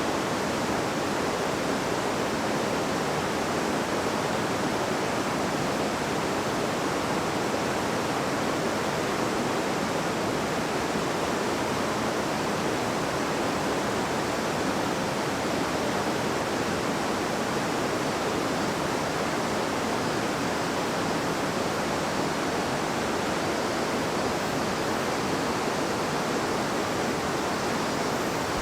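A gently babbling river: flowing water rushing in a steady, even wash of sound with no breaks or distinct events.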